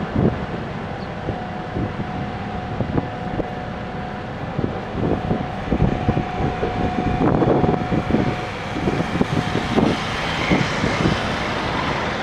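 SANY SAG160-5 motor grader's engine running steadily, with a faint steady whine and scattered knocks and rattles.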